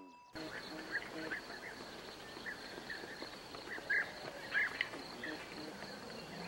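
Chickens feeding outdoors: a few short, soft clucks and scattered short high chirps, the loudest about four seconds in. Behind them are a steady high insect buzz and an outdoor hiss.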